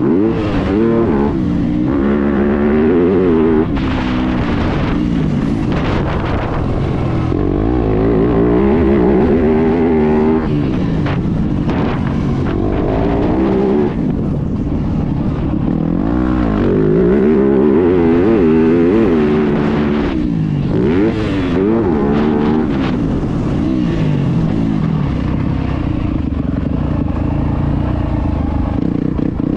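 Motocross bike engine revving hard and backing off over and over, its pitch climbing and dropping every second or two as the rider accelerates, shifts and brakes around the track.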